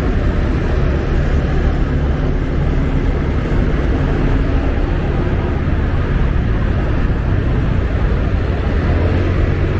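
Steady rush of wind and road noise while riding a Honda Scoopy scooter at highway speed, with the scooter's small engine running at a constant pace underneath.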